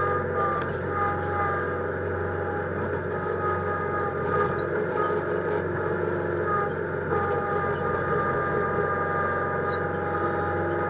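Massey Ferguson 1648 compact tractor's diesel engine running steadily, with a steady high-pitched whine over it.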